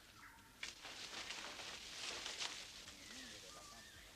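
Faint rustling and crackling of jungle undergrowth, starting about half a second in, with a few faint bird calls later on.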